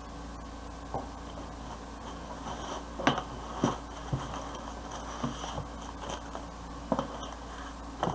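Handling noises: a scattered series of clicks, taps and light scrapes, with the sharpest knocks about three seconds in and again near seven seconds, over a steady low hum.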